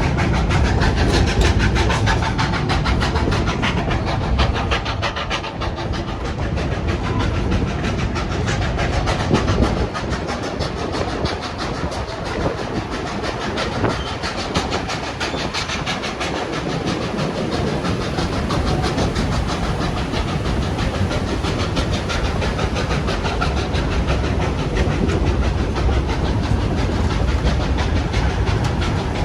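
Narrow-gauge train running, its wheels rumbling and clattering on the rails, heard from on board a passenger car.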